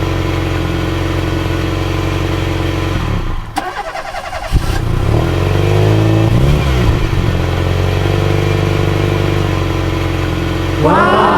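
Vehicle engine running steadily. It cuts out briefly about three and a half seconds in, ending in a click, then revs up and down and settles back to a steady run. It revs again near the end.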